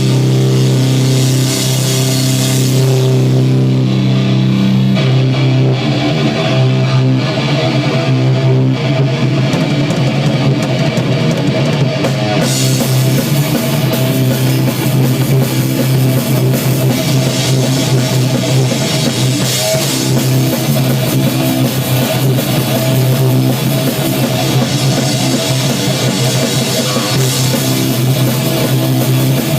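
A rock band playing live: guitar over a drum kit, loud and steady, with the cymbals growing brighter about twelve seconds in.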